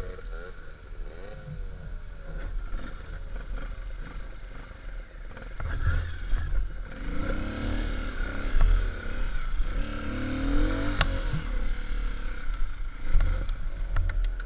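A vehicle driving on a rough forest road: a steady low rumble of engine and tyres, with scattered knocks and rattles. The engine rises and falls in pitch a couple of times, about halfway through and again a few seconds later.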